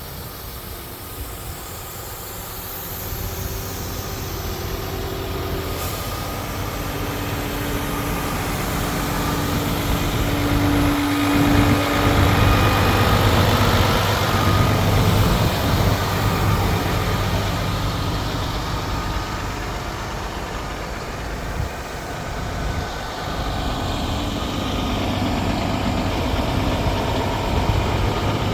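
The diesel engine of a MAN TGS truck running steadily. It grows louder over the first dozen seconds or so, then holds at about the same level.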